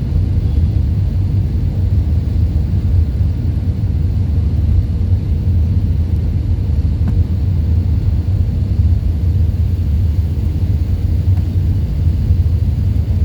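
Steady, deep rumble of an Airbus A319 landing, an even drone with no distinct engine whine or sudden events.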